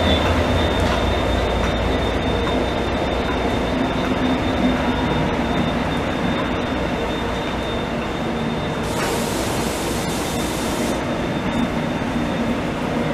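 Passenger train of double-deck coaches rolling past, its diesel locomotive's engine heard as a strong low drone at first that gradually fades as the coaches go by. A thin steady high-pitched whine runs throughout, and a brief burst of hiss comes about nine seconds in.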